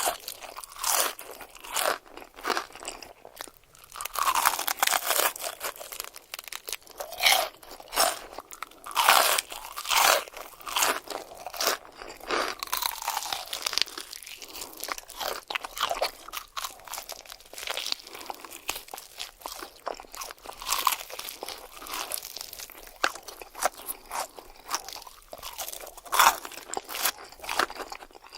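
Close-miked eating: loud bites into crunchy food followed by irregular crunching chews, many sharp crunches a second.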